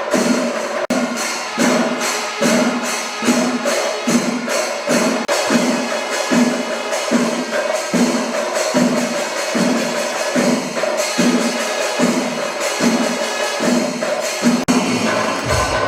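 Percussion music with an even drum beat of about one and a half strokes a second, under continuous jingling cymbal clashes and a held tone.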